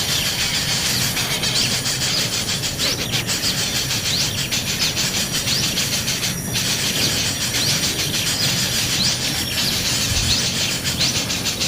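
Nestling birds begging for food: a steady, dense chorus of harsh, high-pitched rasping calls, with many quick rising chirps scattered through it.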